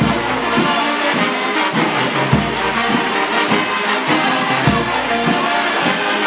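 Brass band playing a march, with trumpets and trombones holding notes over a steady bass drum beat.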